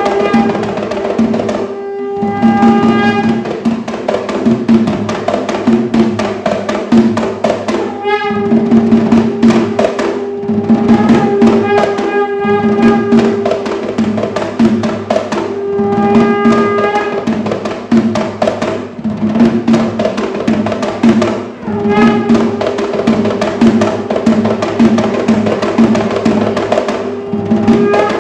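Sri Lankan traditional drumming: double-headed hand drums of kitul wood with cow-hide heads, played in a fast, dense rhythm. A held melodic line comes and goes over the drums every few seconds.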